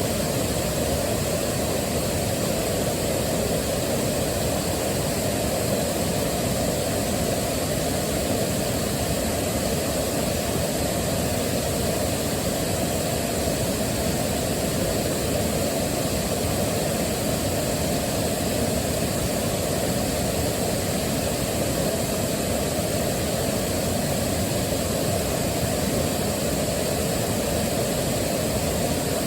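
Waterfall: water rushing in a steady, deep, unbroken noise that does not change.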